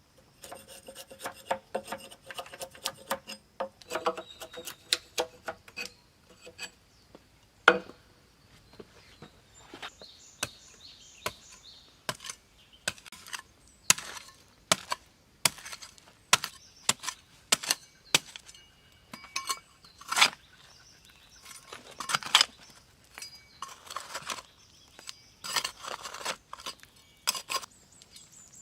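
Hand tools at work: a long run of irregular sharp knocks and clinks, several of them ringing briefly.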